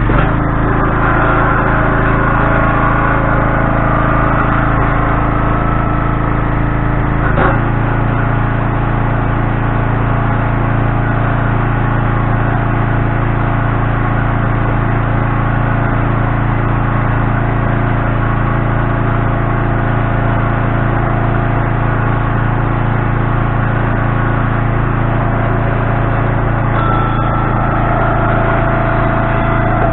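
A vehicle engine running steadily while hauling a load of firewood, with a single knock about seven seconds in and a slight change in its note near the end.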